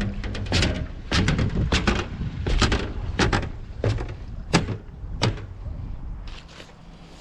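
Footsteps at a brisk walking pace, about one and a half steps a second, fading near the end, with wind rumbling on the microphone.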